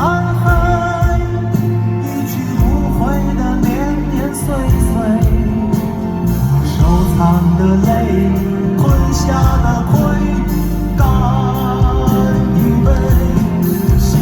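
Live pop song: a band playing with a singer's voice over it, at full concert volume.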